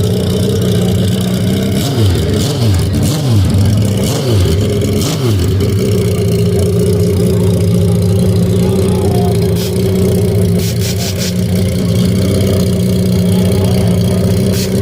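Suzuki Hayabusa's inline-four engine idling, revved several times in quick succession between about two and five seconds in, each rev dropping back, then holding a steady idle.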